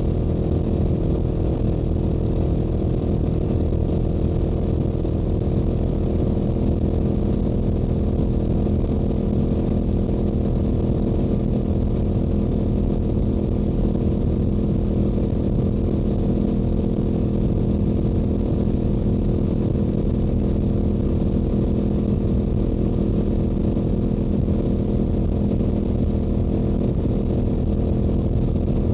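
Yamaha YZF-R7's parallel-twin engine through its stock exhaust, running at steady revs while cruising, with a low wind rumble underneath.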